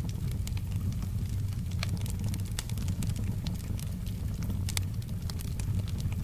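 Wood fire crackling, with frequent sharp pops and snaps over a steady low rumble of the burning fire. Soft rain is mixed in as a faint hiss.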